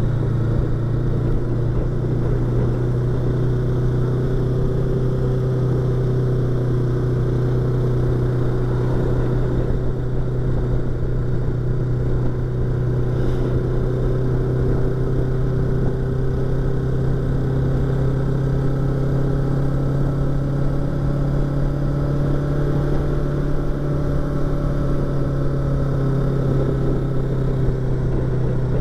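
Yamaha YZF-R25's parallel-twin engine running at a fairly steady cruise, its pitch drifting only gently, heard from inside the rider's helmet with wind and road noise.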